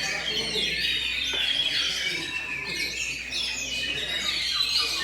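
Several songbirds singing at once, with dense overlapping whistles and chirps; oriental magpie-robins (kacer) are among them.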